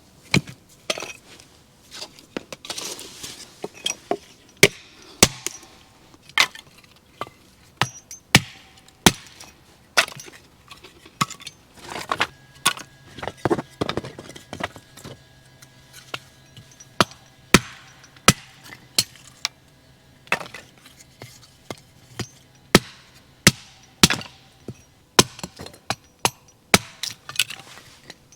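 A long run of sharp, irregular knocks and clacks, about one or two a second, from hard objects being struck or handled.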